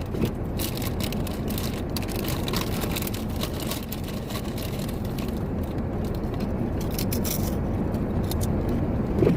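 Steady low rumble of an idling truck, heard inside the cabin, with scattered sharp ticks and crackles that are thick in the first half and thin out later.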